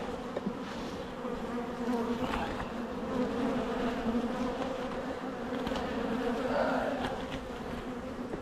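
Steady buzzing of many honeybees around an opened hive, the drone holding a low pitch with an overtone above it.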